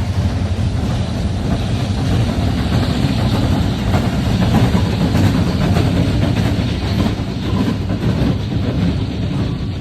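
Norfolk Southern freight train rolling past at close range: a steady, loud rumble of the cars with wheels clicking over the rails, easing slightly near the end.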